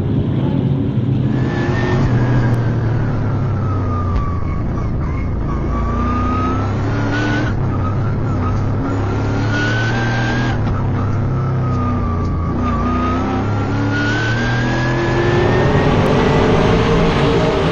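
Trans Am race car's V8 engine at racing speed, its revs climbing and dropping repeatedly as it shifts gears and brakes, with a long rising pull near the end.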